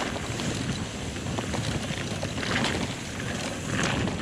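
Wind buffeting the microphone of a helmet-mounted camera as a mountain bike rolls downhill over grass, a steady low rumble with a few light clicks and rattles from the bike.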